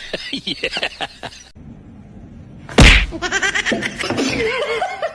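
Voices, cut off abruptly, then a single loud smack just under three seconds in, followed by more voices.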